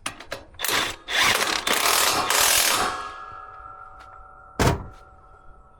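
Mounting bolts being tightened on a winch: a few clicks, then about two seconds of loud, rapid mechanical clatter from the tool working the bolts. After that comes a faint ringing and a single sharp knock near the end.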